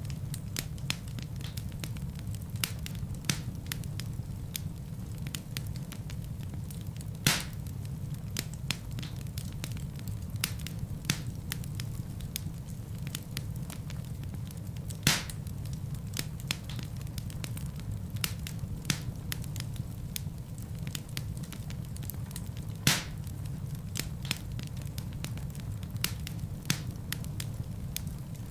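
Wood fire burning in a fireplace: a steady low rumble of flames with frequent small crackles, and three louder pops from the logs spaced about eight seconds apart.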